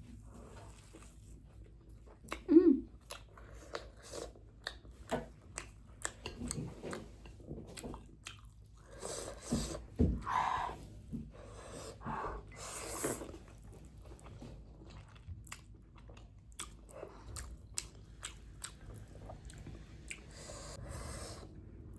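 Close-up eating sounds of a person eating spicy Buldak ramen noodles: wet chewing and biting, with many small mouth clicks. A brief loud sound comes about two and a half seconds in, and a run of louder, noisier mouth sounds comes about nine to thirteen seconds in.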